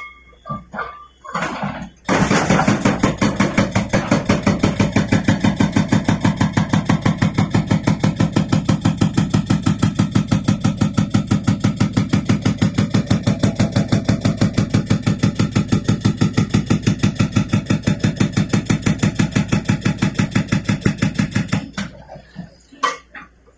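Excavator-mounted hydraulic breaker hammering rock inside a well, a fast even run of blows at about five or six a second. It starts about two seconds in and stops near the end, with a few loose knocks before and after.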